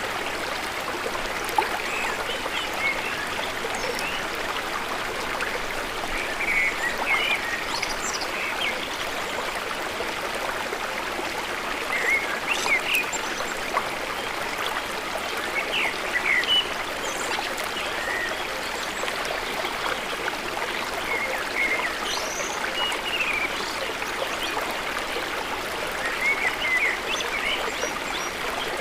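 Water running steadily in a village irrigation canal: a continuous rushing with many small gurgles and splashes scattered through it.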